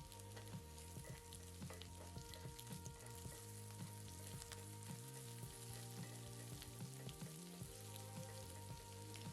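Spice-coated boiled egg halves, crushed garlic and curry leaves frying in oil in a pan on a low flame, sizzling softly with many small crackles.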